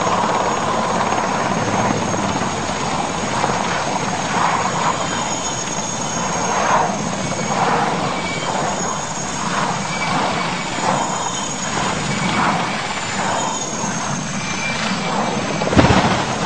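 Aircraft engine running steadily, with a thin high whine over a rushing noise that swells and fades. A single sharp thump near the end is the loudest moment.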